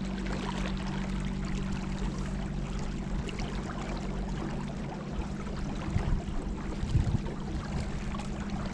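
River water rushing and trickling around a small boat on the move, over a steady low hum, with a couple of low knocks about six and seven seconds in.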